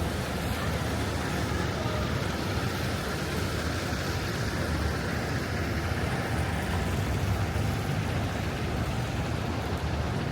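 Steady city street traffic noise, an even rumble and hiss of passing vehicles.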